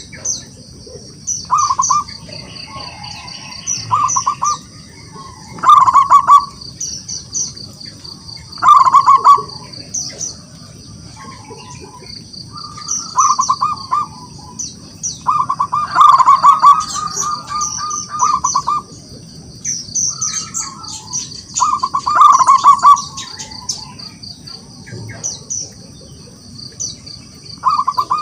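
Zebra dove (perkutut) cooing: loud bursts of quick staccato coos every two or three seconds, a call used to provoke rival doves into answering. Short high chirps and a steady high-pitched hum run underneath.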